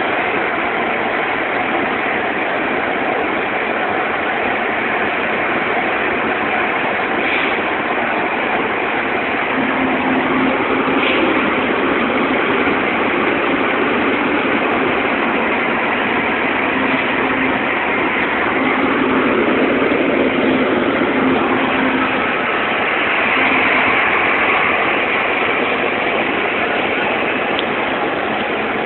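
Heavy rain and road noise heard from inside a car, a steady hiss, with a low engine hum in the middle stretch and a few brief clicks.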